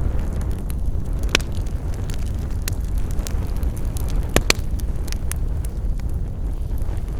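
Campfire burning, the wood crackling and popping over a steady low rumble, with a few sharper pops about a second and a half in and around four and a half seconds in.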